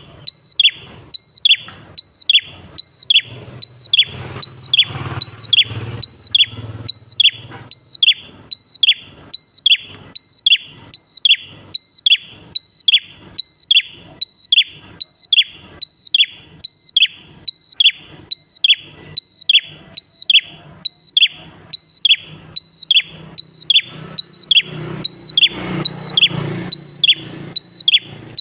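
Prenjak klawu calling over and over: one short, high note that falls sharply in pitch, repeated evenly a little more than once a second.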